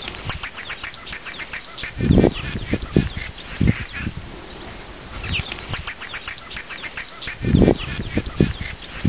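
A songbird singing two song phrases, each a quick series of high notes lasting about four seconds, one after the other. Low thumps sound underneath during each phrase.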